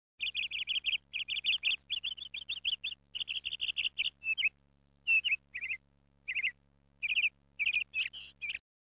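A small bird chirping in quick runs of short, bending chirps, with brief pauses between the runs.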